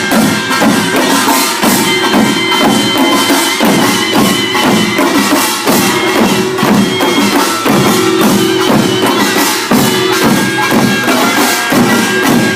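Korean pungmul band playing: kkwaenggwari small gongs and janggu and buk drums beat a fast, dense rhythm, with a held reedy wind tone over them.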